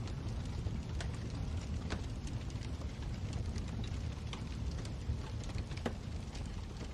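Wood fire burning in a fireplace: a steady low rumble of the flames with scattered crackles and pops, one sharper pop about six seconds in.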